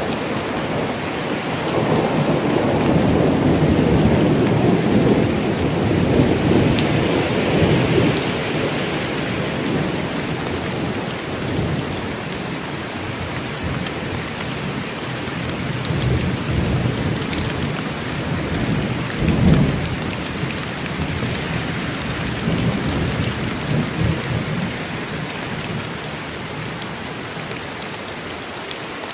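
Steady heavy rain falling in a forest, with rolling thunder rumbling underneath in several swells, the strongest a short sharp rumble about two-thirds of the way in; the thunder fades near the end, leaving the rain.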